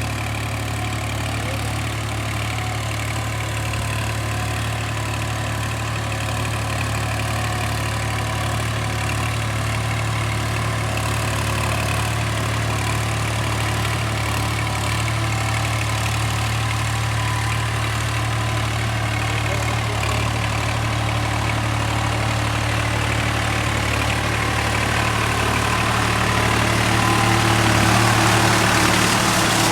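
New Holland tractor's diesel engine running steadily with a low, even hum, getting a little louder near the end.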